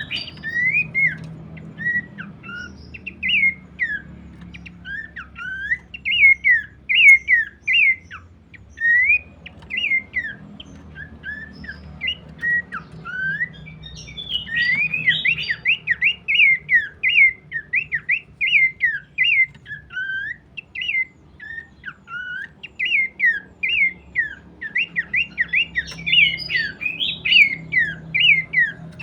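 Abbott's babbler singing: a continuous run of short, slurred whistled notes rising and falling in pitch, busier around the middle and near the end.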